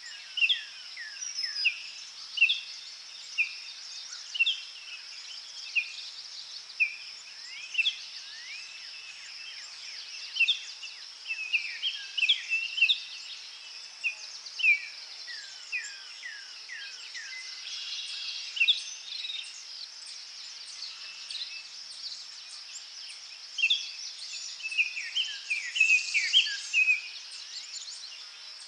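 Forest birds calling in many short, falling chirps, over a steady high insect drone.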